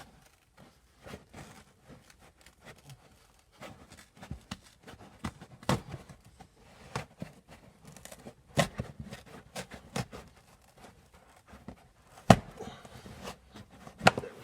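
Hands working behind the carpet and plastic trim of a car's passenger footwell: irregular rustling with scattered clicks and knocks, the sharpest knock about twelve seconds in.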